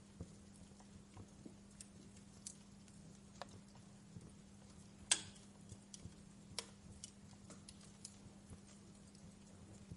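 Wood fire crackling: irregular sharp pops and snaps, the loudest about five seconds in, over a faint steady hum.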